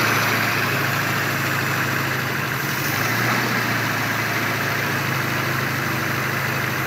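Daihatsu Espass 1.6-litre four-cylinder petrol engine idling steadily, heard up close through the open engine cover under the front seat.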